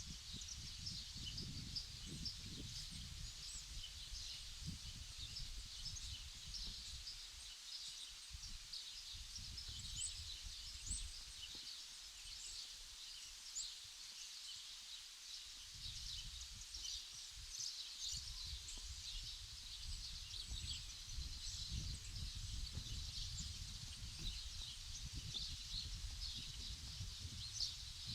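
Outdoor ambience with many birds chirping continuously in short, high calls, over a low, uneven rumble that fades out for several seconds in the middle.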